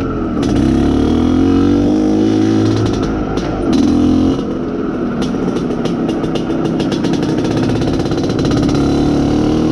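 IZh Planeta Sport's single-cylinder two-stroke engine running under way as the motorcycle is ridden, its revs rising and falling with the throttle. The engine is being run in.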